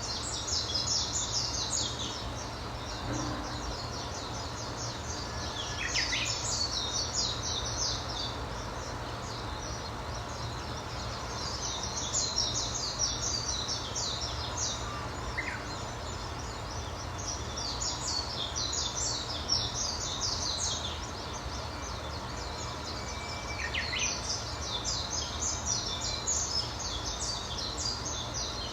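A songbird singing five phrases about six seconds apart, each a rapid run of high notes lasting two to three seconds, over a steady outdoor background hiss.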